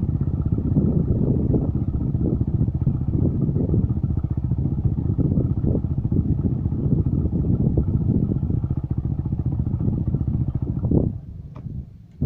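Strong wind buffeting the microphone in a loud, gusting rumble, easing off sharply about eleven seconds in.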